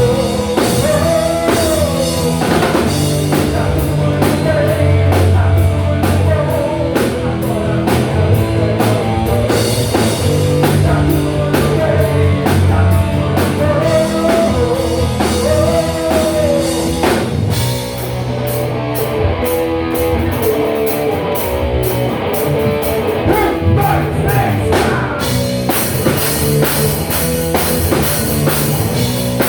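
Rock band playing live with drum kit, electric guitar and bass; the arrangement changes a few seconds before the end.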